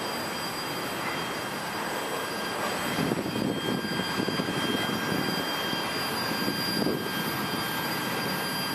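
Slow-rolling freight train, its covered hopper cars' steel wheels rumbling on the rails with a faint high steady whine. A run of louder, irregular clunks comes between about three and seven seconds in.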